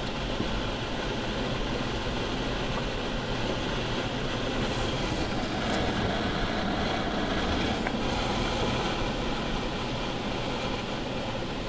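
Automatic car wash machinery running, a steady rushing noise heard from inside the car, swelling a little midway and easing off near the end.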